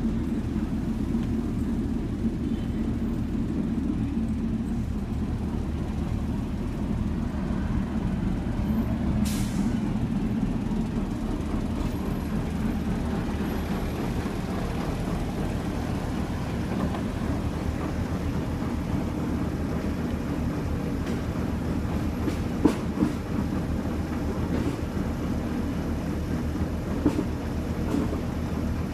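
Delivery truck engine idling steadily while parked, a low, even running sound. A few brief sharp knocks come in the last third.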